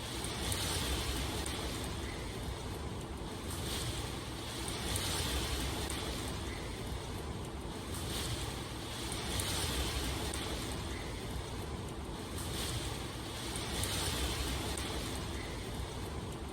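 Steady rain noise, a dense even hiss, swelling and easing every two seconds or so.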